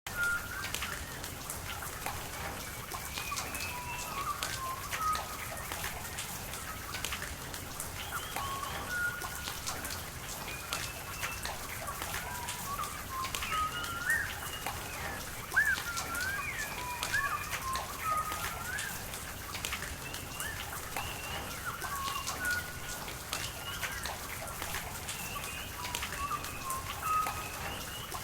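Many birds chirping and calling in short, quick notes over steady falling rain, with scattered raindrop ticks.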